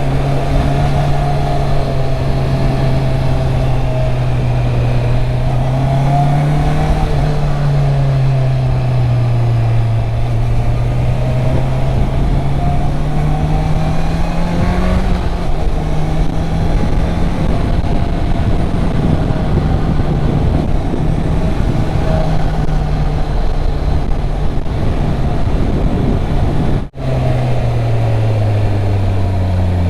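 Honda CB650R's inline-four engine on its stock exhaust, running under way while riding downhill, its note rising and falling gently with throttle and speed. Near the end the sound drops out for an instant, then the engine note falls as the bike slows.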